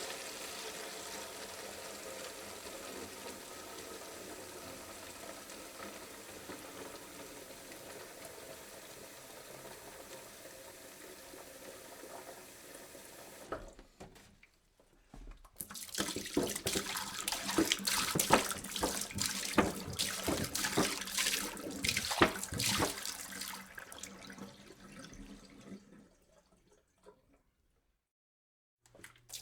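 Water poured into a jug: a steady stream for about thirteen seconds, a pause of about two seconds, then a louder, splashier pour that tapers off and stops a few seconds before the end.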